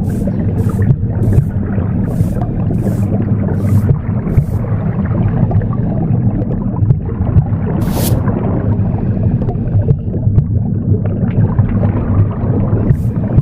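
Womb sound, a steady low whooshing rumble, mixed with a broom sweeping: short swishing strokes, a little under two a second for the first few seconds, one lone stroke midway, and the sweeping starting again near the end.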